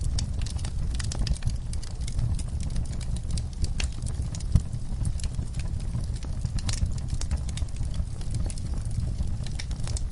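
Wood fire in a fireplace crackling, with irregular sharp pops and snaps over a low steady rumble of the flames; one pop stands out about halfway through.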